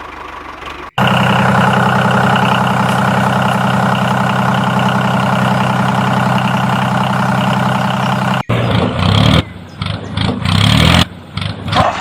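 Engine running steadily with an even hum, coming in abruptly about a second in and cutting off abruptly after about seven seconds, followed by short choppy bursts of sound.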